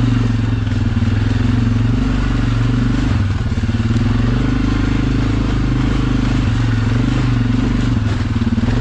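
ATV engine running steadily while riding at slow trail pace, the engine note easing and picking up again a few times as the throttle changes.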